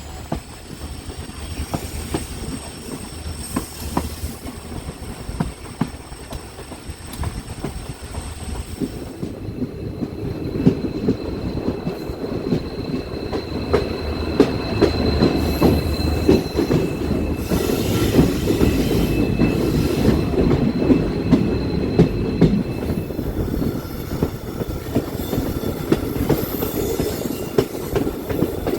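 Train running on the rails: a steady rumble with wheels clicking over rail joints and a thin, high wheel squeal. The squeal changes pitch about nine seconds in, and the running grows louder after that.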